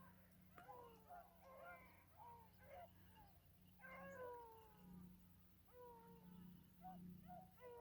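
A pack of beagles baying faintly on a running rabbit's track: several hound voices overlapping in long, falling bawls, one after another throughout.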